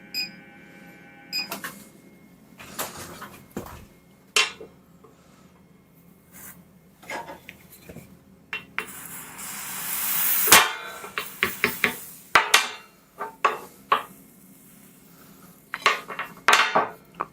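Metal and wood knocks and clinks from a draw knife and its wooden handle being worked in a test fit. Near the middle a hiss rises for about two seconds, then comes a sharp knock and a quick run of taps.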